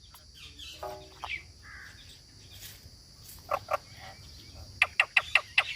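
A parrot giving short, sharp calls: two around the middle, then a quick run of about five near the end. A steady high-pitched drone sits in the background throughout.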